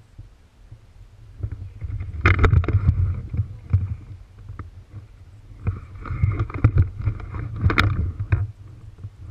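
Close rustling and crunching with low knocks on the microphone, in two spells of about three seconds each: dry grass pushed through and the camera jostled by someone moving through it.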